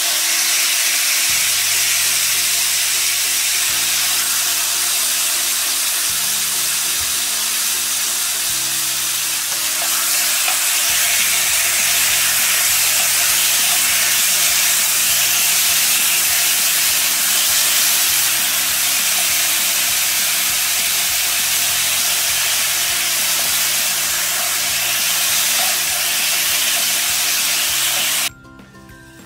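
Marinated chicken thigh pieces sizzling loudly in hot oil in a frying pan as they are stir-fried. The sizzle cuts off suddenly about a second before the end.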